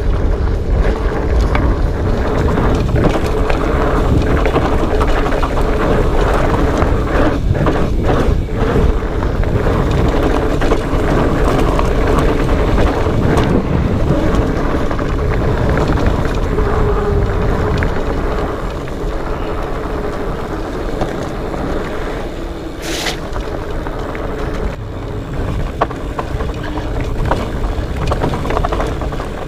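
Wind buffeting the microphone over the steady rumble of a Specialized Fatboy fat bike's tyres on a rocky dirt trail, ridden fast. A single sharp click comes late on.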